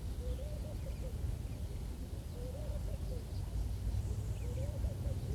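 A short, low, wavering call repeated about every two seconds, three times, over a steady low rumble.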